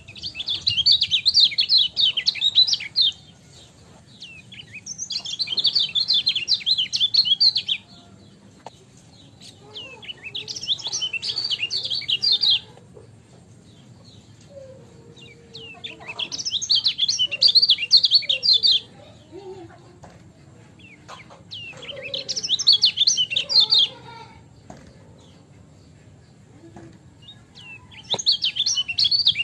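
Kecial kuning songbird singing: bursts of rapid, high twittering chirps about three seconds long, repeated roughly every six seconds with short pauses between.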